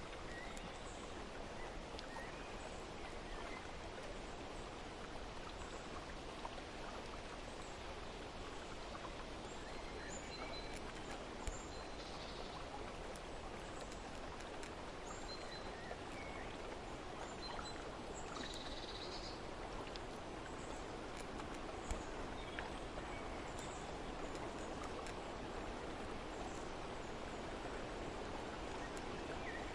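Steady rushing water, with faint bird chirps scattered through it.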